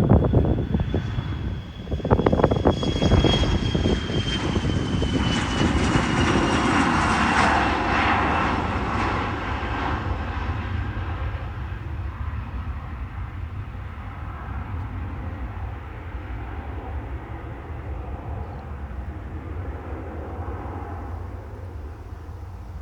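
Airliner taking off and passing, with a high engine whine that slides down in pitch as the rushing engine noise swells. The noise then fades away steadily. Wind buffets the microphone near the start.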